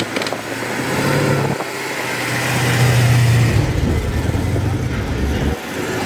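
A car engine running and revving, its note stepping up for a couple of seconds and then easing back, with people talking behind it.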